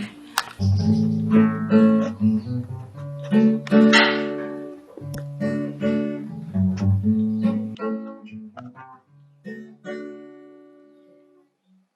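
Acoustic guitar being played, plucked notes and chords over low bass notes. The last notes die away about a second before the end.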